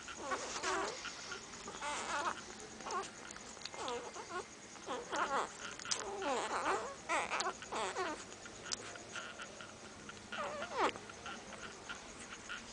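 Newborn puppies whimpering and squeaking: many short, high, wavering cries, one or several every second, sometimes overlapping.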